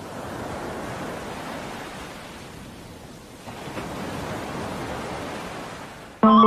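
Steady rushing noise like surf or wind, easing off around the middle and swelling again. Music with plucked-string tones cuts in abruptly near the end.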